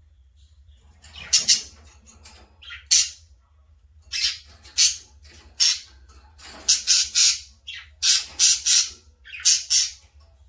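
Baby budgerigars giving a series of short, harsh, scratchy calls, about a dozen in quick pairs and threes, starting about a second in.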